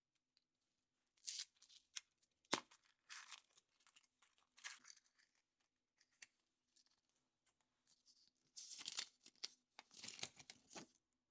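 Surprise-egg packaging being torn and crinkled by hand in several short bursts, the longest near the end, with one sharp click about two and a half seconds in.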